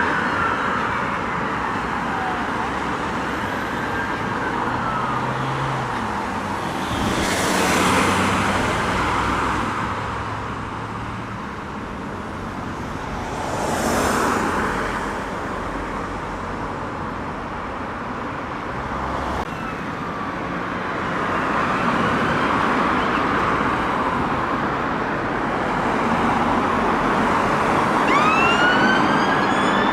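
Emergency vehicle sirens wailing in slow rising and falling sweeps over city traffic noise, with vehicles rushing past twice. Near the end a siren comes in loud and close.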